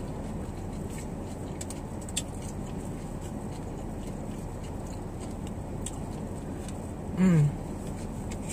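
Quiet chewing and mouth clicks over a steady low background noise inside a car cabin, then a short falling "mmm" from a woman's voice about seven seconds in.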